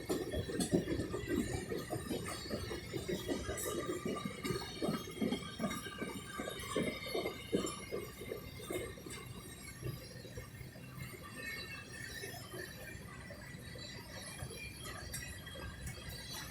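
Grain train's freight cars rolling past: an irregular run of wheel clicks and car clanks that thins out and gets quieter.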